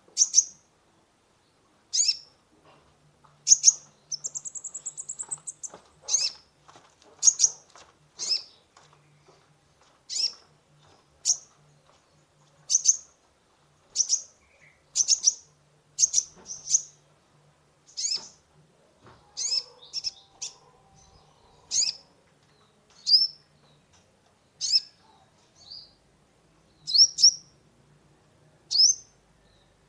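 Kolibri ninja sunbird calling: sharp, high chirps about once a second, each a quick downward slide, with a short rapid trill about four seconds in.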